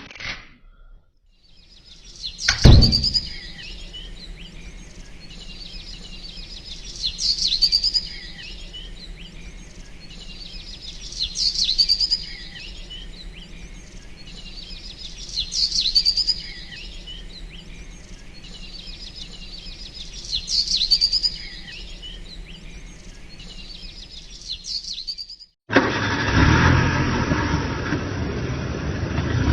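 Recorded bird sound effect: the same short chirping call repeats about every four and a half seconds over a low steady hum, with a sharp knock at the first call. About 26 seconds in it cuts off and a car engine sound starts suddenly.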